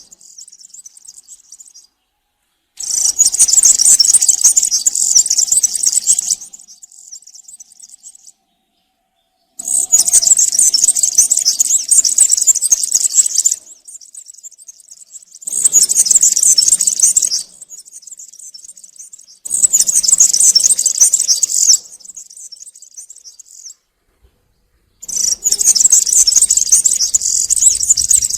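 European serin singing: five bursts of fast, high-pitched song, each two to four seconds long, with short quieter pauses between.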